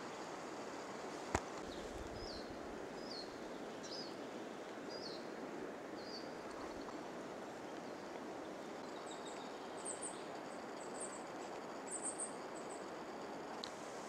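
Wild birds calling over a steady outdoor hiss: a run of short chirps about once a second in the first half, then higher, thinner chirps in the second half. There is one sharp click a little over a second in.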